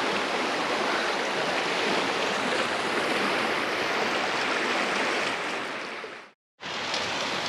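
Fast mountain creek running high, a steady rushing of water. It fades out about six seconds in, and after a brief silence a softer steady hiss resumes.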